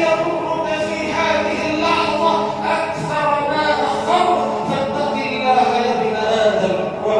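Unaccompanied vocal music, a nasheed: layered voices singing long, held, wavering lines with no instruments.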